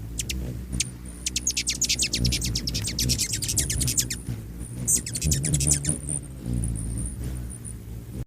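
Hummingbird chipping and twittering: a fast run of very high, sharp chips, thickest in the middle, over a steady low hum. It cuts off suddenly at the end.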